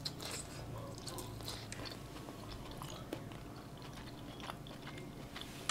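Close-miked chewing of a soft chive-and-tofu dumpling: a bite just at the start, then small wet mouth clicks and smacks as it is chewed.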